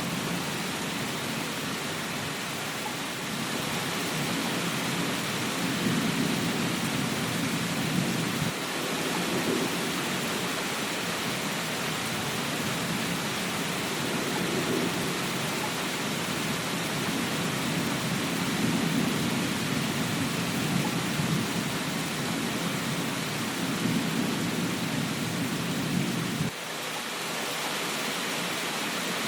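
Steady rain hiss with a long, low rolling thunder rumble that comes in about three seconds in, swells and fades in waves, and cuts off abruptly near the end.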